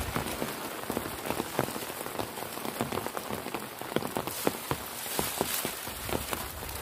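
Heavy rain falling steadily, with many irregular close drop taps over the hiss.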